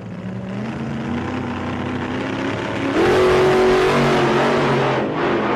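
A motor vehicle engine revving: its pitch climbs slowly, then it surges louder with a quick rise in pitch about three seconds in.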